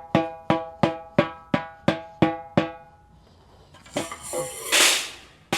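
Ludwig Acrolite aluminium-shell snare drum's head tapped lightly, about three times a second, eight even taps each ringing at a clear pitch: checking the head's tension while tuning. After a short pause, about four seconds in, a few harder hits with a loud buzzy, noisy wash.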